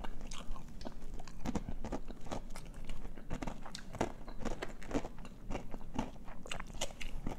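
Close-miked chewing with many small, irregular crunches and wet clicks of food being bitten and eaten.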